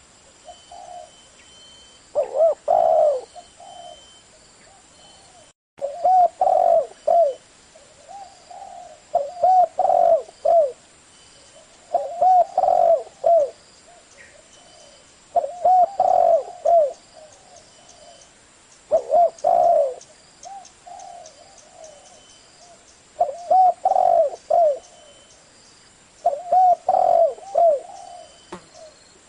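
Spotted dove with a deep 'thổ' voice cooing: phrases of several low, curved coos repeat about every three to four seconds, around eight times.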